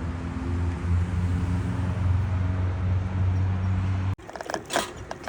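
Steady low hum of a running vehicle, with even engine tones over a bed of road noise.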